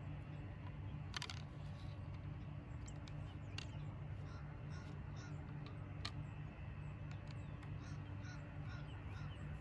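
Outdoor background with a steady low hum, a few faint clicks and scattered short bird calls.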